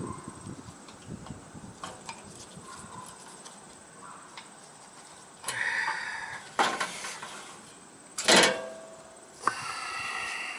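Metallic clinks and knocks of tools and metal parts being handled while a condenser fan motor is worked free, with several louder clatters in the second half.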